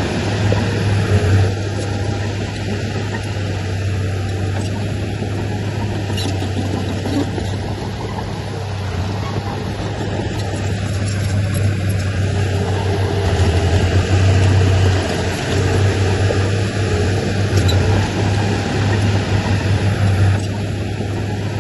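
Heavy diesel engine of earthmoving machinery running steadily under load, its low note swelling louder at times as it works.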